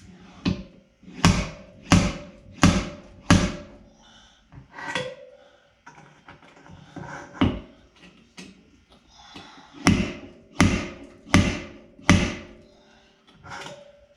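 Repeated hammer blows on a vehicle's sheet-metal body panel, working a dent out slowly, each strike leaving a short metallic ring. A run of five blows about two-thirds of a second apart, a few softer knocks, then four more blows at the same pace.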